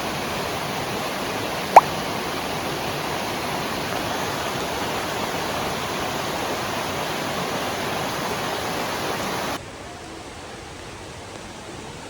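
Steady rush of flowing water, broken by one brief sharp click about two seconds in. Near the end the water suddenly becomes quieter and duller.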